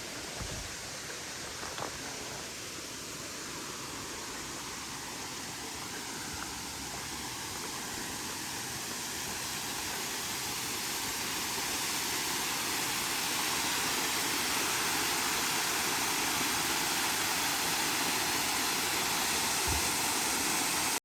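Waterfall rushing: a steady hiss of falling water that grows gradually louder over the first dozen or so seconds, then holds steady.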